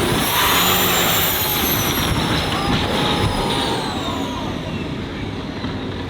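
Turbocharged vehicle engine under hard acceleration, with turbo whistle rising and falling twice over the steady engine noise.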